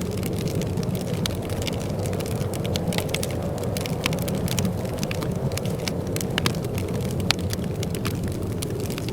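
Wood fire crackling in a fireplace, with frequent small pops and a few louder snaps over a steady low rumble.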